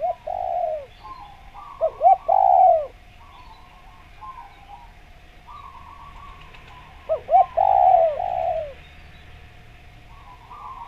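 Spotted dove cooing: a few short clipped notes followed by a longer coo that falls in pitch, given in one phrase at the start, again at about two seconds, and once more about seven seconds in. Fainter, higher bird calls sound between the phrases.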